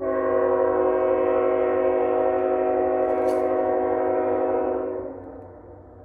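Diesel locomotive air horn sounding one long blast, several steady notes together as a chord, starting abruptly and holding for about five seconds before dying away. A low rumble of the train runs beneath it.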